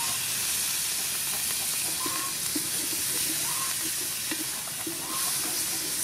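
Fish sauce sizzling in hot oil and fried chili paste in a metal pot, a steady hiss as it boils off in steam while a wooden spatula stirs it.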